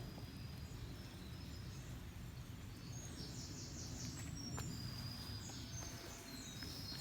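Birds singing with short, high whistled notes and a quick trill, mostly in the second half, over a faint low steady rumble of outdoor background noise.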